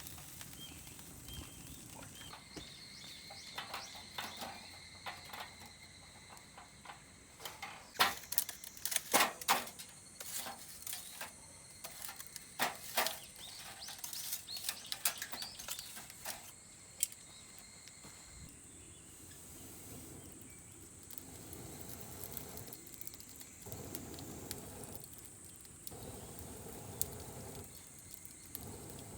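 Steady high-pitched buzz of summer insects, with a cluster of sharp clicks and cracks in the middle.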